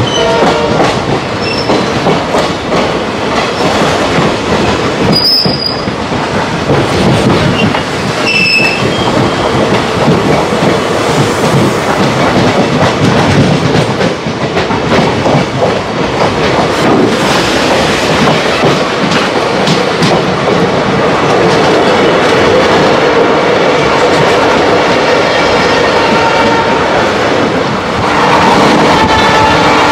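Passenger train of ICF coaches running on the rails: a steady loud rumble and clatter of wheels on track. There are a few short high squeaks about five and eight seconds in, and the sound grows a little louder near the end.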